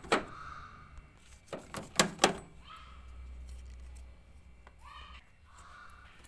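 Handling noise from working on washing-machine parts: a quick run of four sharp clicks or knocks about one and a half to two and a half seconds in, with fainter rattles and scrapes around them.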